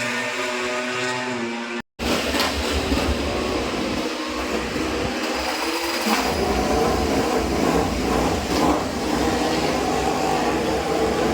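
A racing motorcycle engine running with a steady high note for about two seconds, then an abrupt cut to a steady, dense low rumbling noise.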